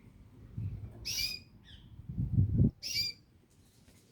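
Male canary giving short, high chirps, one call repeating about every two seconds, twice here. Between the calls come two muffled low rumbles, the second the loudest sound.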